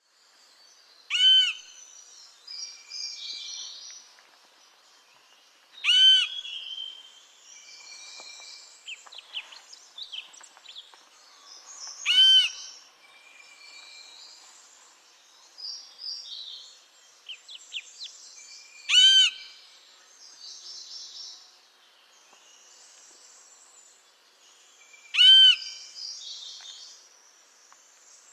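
Lesser yellownape woodpecker calling: five loud single call notes, each short and bending in pitch, spaced about six seconds apart. Softer high chirps from other birds fill the gaps between them.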